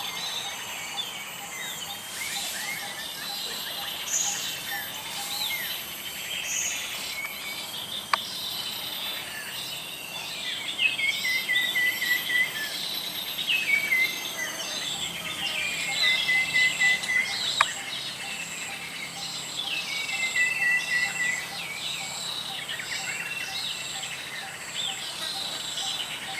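Several birds chirping and singing over a steady insect drone. One bird repeats a descending song phrase about three times, and there are two sharp clicks partway through.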